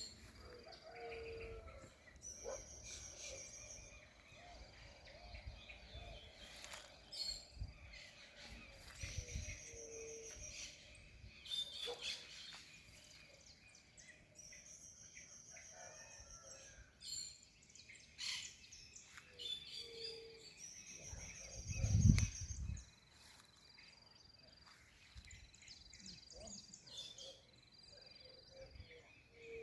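Several birds singing and calling. A high trilled phrase lasting about a second repeats roughly every six seconds among short high whistles and an occasional short low hoot. A loud low thump comes about two-thirds of the way through.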